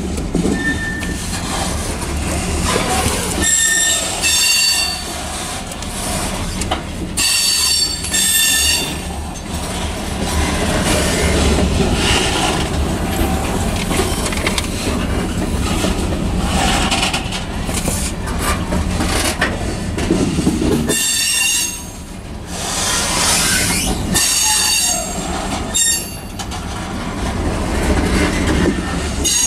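Covered hopper cars of a grain train rolling past with a steady rumble of steel wheels on rail, broken a few times by brief high-pitched wheel squeals.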